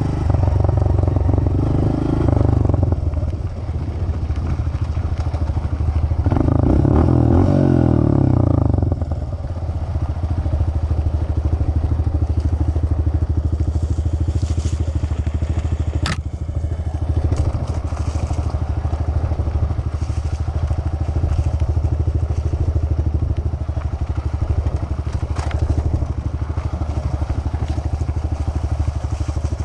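Dirt bike engine running as it is ridden, opening up louder twice in the first nine seconds, then holding a steady pace. A single sharp click about sixteen seconds in.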